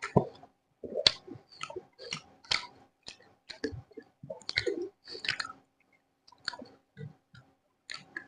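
Close-up mouth sounds of someone eating chicken: chewing with irregular wet smacks and clicks, several a second with brief pauses.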